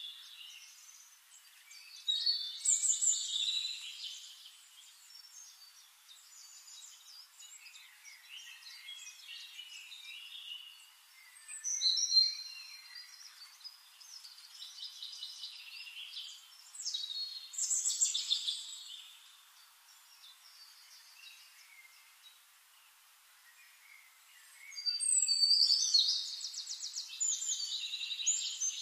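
Small birds chirping and singing in scattered bursts, with a long fast trill near the end.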